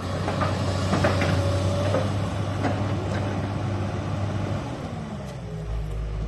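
Excavator diesel engine running steadily under load, with a few knocks and a brief whine in the first couple of seconds; about five seconds in the engine note drops to a lower, steadier hum.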